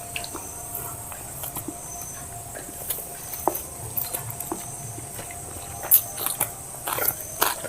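Close-up eating sounds from biryani and salad being eaten: wet chewing, small crunches and clicks of food and plate. They are sparse at first and come thicker and louder near the end.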